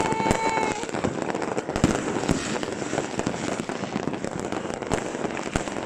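Many fireworks going off at once: a dense, continuous run of bangs and crackling pops. A short steady tone sounds in the first second.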